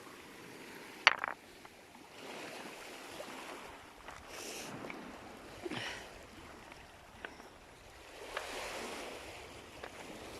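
Small sea waves washing in on a stony shore in soft swells every few seconds, with a few sharp clicks, the loudest about a second in.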